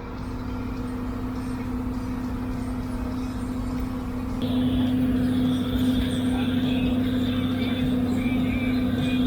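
John Deere 4440 tractor's six-cylinder turbo diesel engine running steadily, with a steady hum; it grows louder about halfway through as a higher whine comes in.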